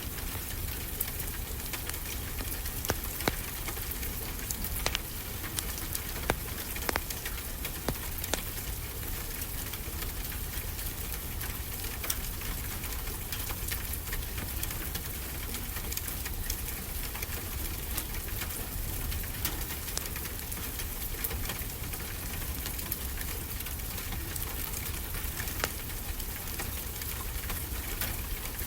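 Steady rain with a wood fire crackling, a few sharper pops standing out in the first several seconds and once more near the end.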